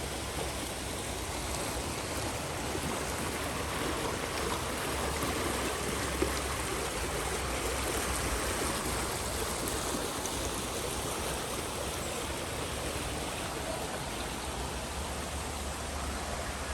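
Steady rushing of the Düden waterfall and its stream, an even wash of falling and flowing water.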